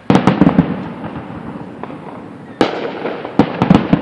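Aerial fireworks shells bursting: a quick cluster of bangs right at the start, a single sharp bang about two-thirds of the way through, and another rapid cluster near the end, each bang trailing off.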